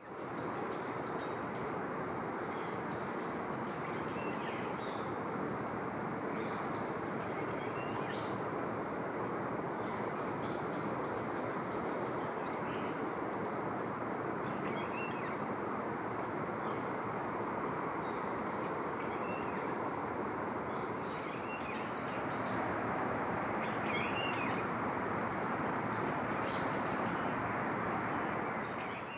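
Small bird calling with short, high chirps repeated about twice a second, then more scattered, with a few sliding calls later. A steady rushing outdoor background noise runs beneath it.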